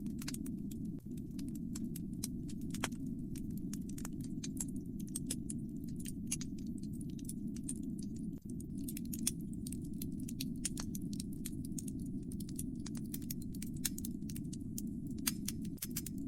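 Fireplace fire crackling: a dense, irregular stream of sharp pops and snaps over a steady low rumble.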